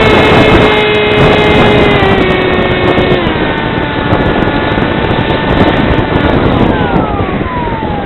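Radio-controlled model aircraft's motor and propeller whining at steady high throttle, stepping down in pitch about three seconds in, then gliding lower near the end as the throttle is pulled back. Wind buffets the microphone throughout with a heavy rumble.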